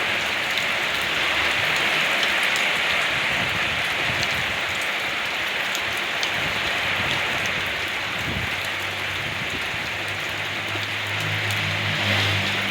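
Steady rain falling, a dense even hiss with scattered drop ticks. A low hum comes in during the last few seconds.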